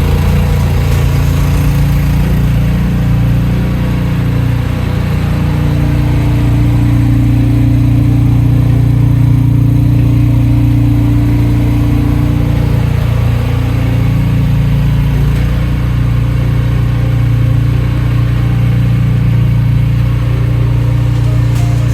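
An engine running steadily with a low drone that rises and falls slightly in strength.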